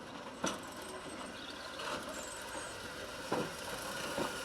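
Footplate of a small Andrew Barclay steam locomotive: a steady hiss with three sharp metallic knocks, one about half a second in and two near the end.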